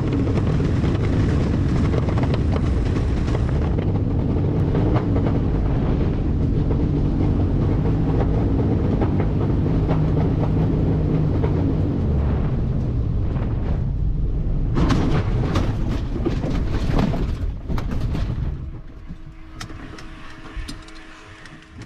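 Loud, steady rumble of airflow and noise inside a small plane during a forced landing after engine failure. From about fifteen seconds in comes a run of knocks and rattles, typical of touchdown on rough farm ground, after which the noise dies down.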